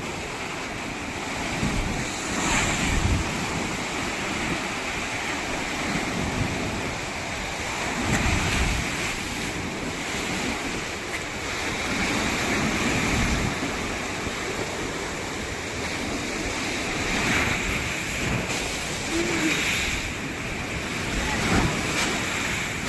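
Ocean surf breaking and washing ashore, swelling and easing every few seconds, with wind rumbling on the microphone.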